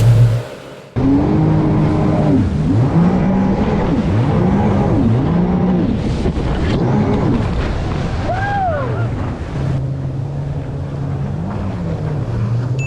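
Jet ski engines running at speed, their pitch rising and falling about once a second, with water and wind noise. It opens with a short loud burst and a brief dip, and near the end an engine settles to a steady lower note.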